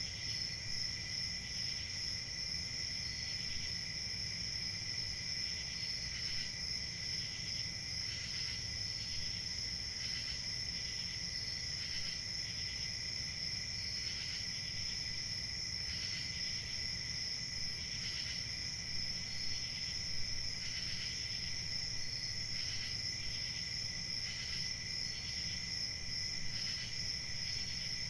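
A chorus of crickets chirping without a break, a steady high trill with a second, higher one above it, and other short chirps coming in every second or two, over a faint low rumble.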